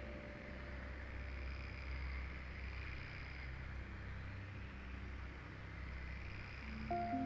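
Rainforest ambience: wind moving through the trees, swelling and easing, under a low rumble. A faint high insect buzz comes and goes twice.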